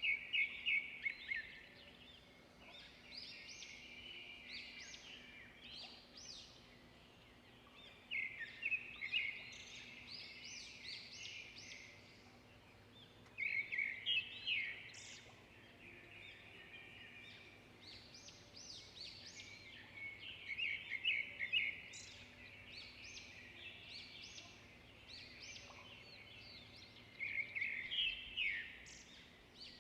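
Songbird birdsong: a loud phrase of quick high notes about every six or seven seconds, each lasting a second or two, with softer chirping in between.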